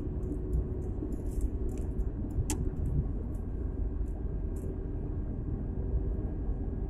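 Steady low rumble of a Niva heard from inside the cabin on the move, with scattered faint clicks and ticks and one sharper click about two and a half seconds in.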